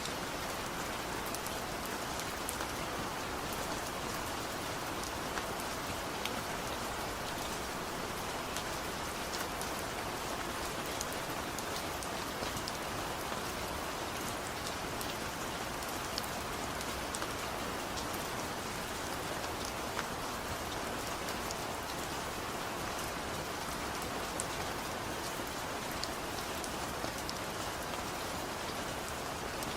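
Steady gentle rain falling on a surface, with many small scattered drop ticks over an even hiss.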